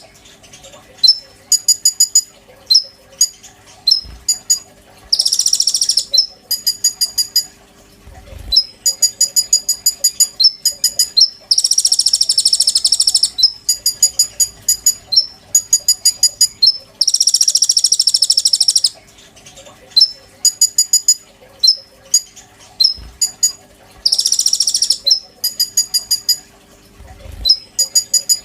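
A konin songbird singing loudly and without a break. Long buzzy, rasping notes of a second and a half to two seconds come four times. Between them are fast rattling trills of rapidly repeated notes and single sharp chirps.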